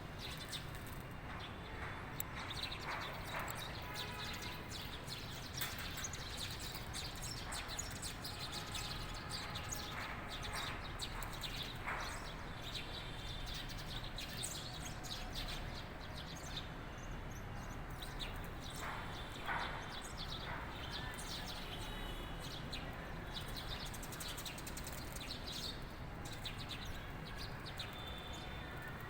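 Birds chirping and singing: many short, overlapping calls and trills, scattered throughout, over a steady low background noise.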